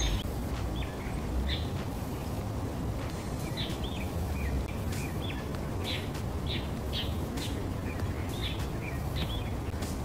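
Birds chirping: many short, quick chirps repeated throughout, over a steady low background rumble.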